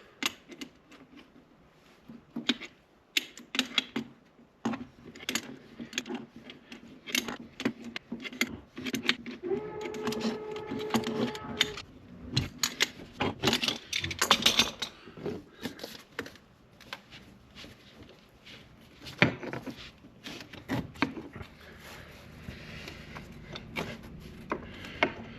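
Irregular clicks, taps and clinks of hard ceramic and metal pieces being handled and set down while a gas log set is arranged in the fireplace. About ten seconds in, a brief steady squeak-like tone lasts under two seconds.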